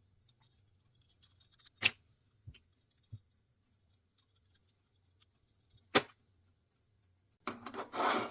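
Sharp metallic clicks and light ticks of a piston ring being handled and fitted onto a piston, with two louder clicks about two and six seconds in, then a stretch of scraping handling noise near the end.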